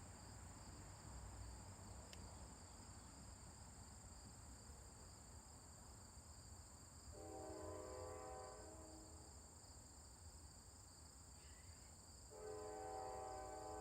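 A faint train horn sounds two long blasts, the first about seven seconds in and lasting about two seconds, the second starting near the end. A steady high insect drone runs under them.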